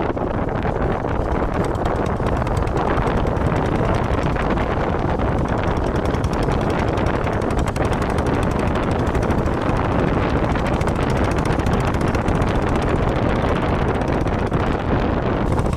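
Steady wind rush buffeting the microphone on a moving motorcycle, with the bike's running and road noise underneath.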